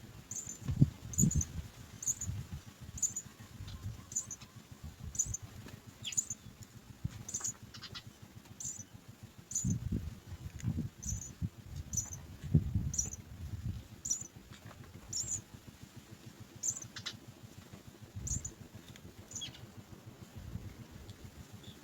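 House sparrow nestlings begging with short, very high cheeps repeated about once a second. Low rustling and bumps come and go underneath, strongest about a second in and again around the middle.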